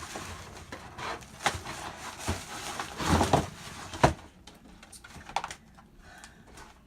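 Irregular handling and unpacking sounds of a boxed product being picked up and opened: clicks and rustles, a burst of rustling about three seconds in, and a sharp knock about a second later.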